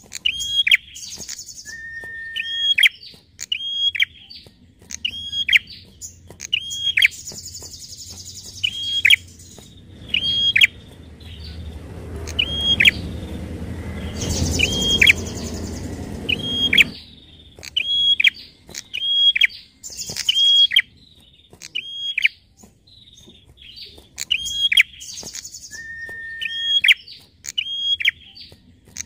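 Prenjak (prinia) calling over and over: sharp chirps that each drop quickly in pitch, about one or two a second, mixed with brief higher buzzy notes. A low rumbling noise rises under the calls in the middle and stops suddenly.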